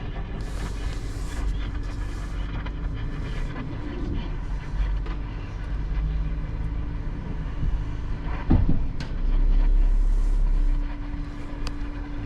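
A vehicle engine running steadily, with two short bursts of hiss in the first few seconds. About 8.5 seconds in there is a sharp knock, then a louder stretch of engine noise lasting a second and a half.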